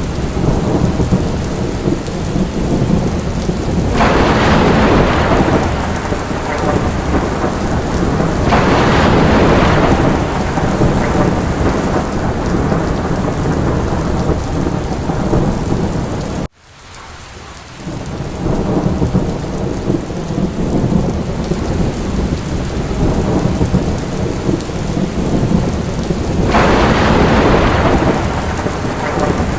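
Steady heavy rain with rolling thunder, which swells louder three times. About halfway through, the sound cuts out suddenly and fades back in within about a second.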